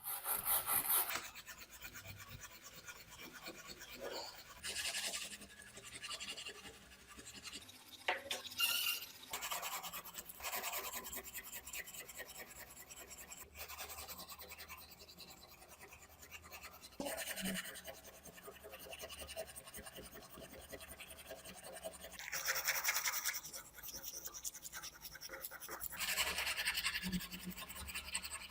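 Irregular scraping and rubbing strokes, a few seconds apart, from hand work on the restored parts.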